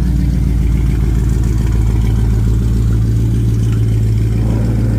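A car engine running at low, steady revs, a deep even drone.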